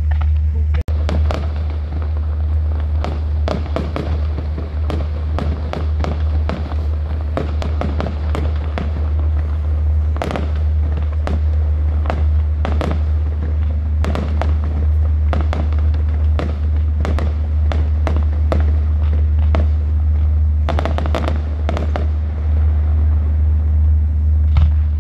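Fireworks display going off: a continuous run of bangs and crackles, many close together, over a steady low hum.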